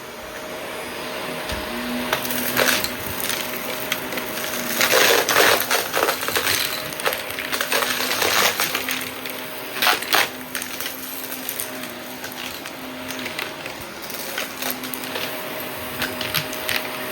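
Shark vacuum cleaner running with a steady motor hum while it sucks up small debris, which crackles and rattles through the nozzle in dense bursts, loudest about five seconds in and again near ten seconds.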